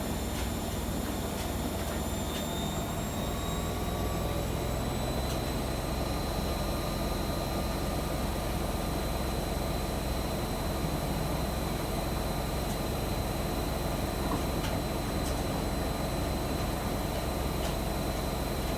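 AEG Öko-Lavamat washing machine spinning: the drum motor's whine rises in pitch over the first few seconds, then holds steady at high speed over a constant rumble.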